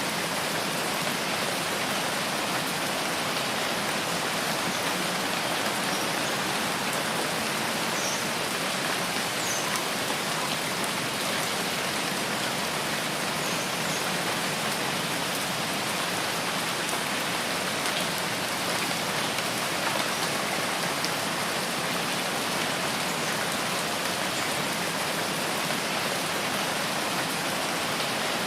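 Steady rainfall in a rainforest: an even, unbroken hiss of falling drops. A few faint high chirps sound about a third of the way in.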